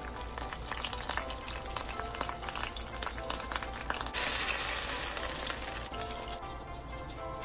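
French toast slices sizzling and crackling in hot fat in a frying pan. The sizzle grows louder for about two seconds, starting about four seconds in.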